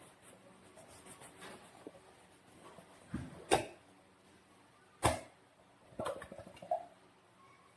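Handling noises from making slime balloons: soft rustling, then several sharp snaps or clicks, the loudest about three and a half and five seconds in, with a quicker cluster about a second later.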